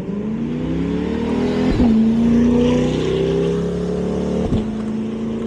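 Car engine accelerating, rising in pitch, then holding a steady pitch after a brief break about two seconds in, with another brief break near the end, like shifting up through the gears.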